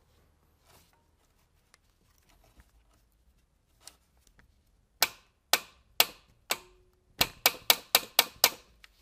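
Sharp metallic clicks from hand tools at work: four spaced about half a second apart, then a quick run of about seven after a short pause.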